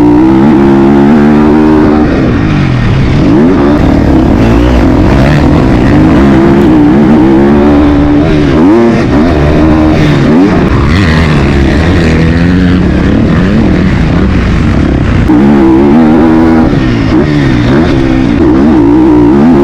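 Motocross bike engine running hard, its pitch climbing and dropping again and again as the throttle is opened and closed and gears change.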